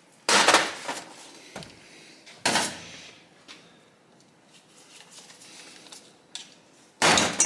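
Metal clattering on a workbench during an engine teardown, three loud clanks spaced a couple of seconds and then several seconds apart, each dying away quickly.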